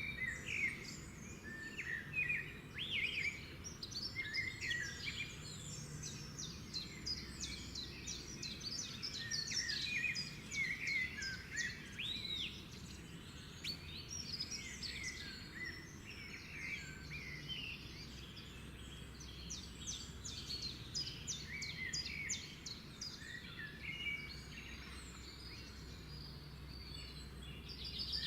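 Several birds singing and calling over one another: a busy, continuous run of short chirps, whistles and trills, over a steady low background noise.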